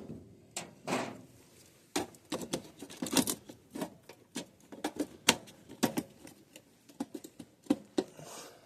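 Irregular clicks, knocks and rattles of hard plastic and metal parts being handled, as a circuit breaker and its plastic mounting clip are worked on inside an air handler. The clicks start suddenly and come one to three a second.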